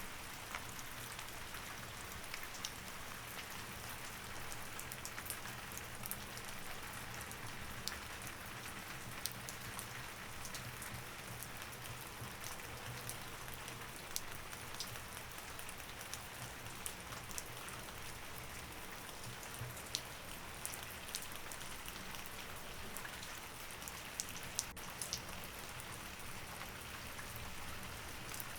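Steady rain with many small, sharp drop ticks, over a faint, steady low hum.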